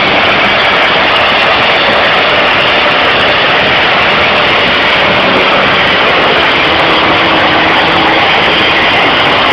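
Engine of a tractor-pull vehicle running very loud and steady, with no let-up.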